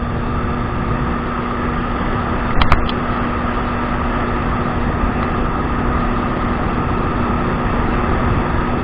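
Kawasaki 1200 jet ski engine running at a steady speed, with one sharp knock about two and a half seconds in.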